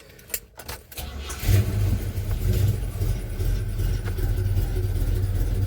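Chevrolet 350 small-block V8 of a 1984 Chevy C10 pickup, freshly rebuilt with a new cam and lifters, starting up about a second and a half in after a few clicks, then running steadily, heard from inside the cab.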